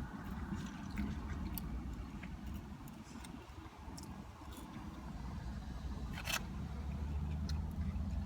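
Close-up eating sounds: chewing and food handling, with scattered small clicks and crackles and one louder crackle about six seconds in.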